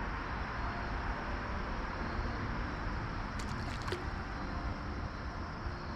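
Creek water flowing steadily, with a few faint clicks about three and a half seconds in.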